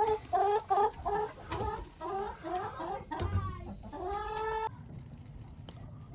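Domestic hens clucking: a quick run of short clucks, several a second, ending in a longer drawn-out call about four and a half seconds in, after which it goes quieter.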